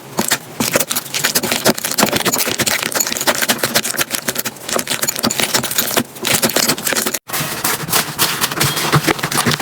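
Slime being squeezed and worked by hand close to the microphone: a dense run of small crackles and clicks, with a brief break about seven seconds in.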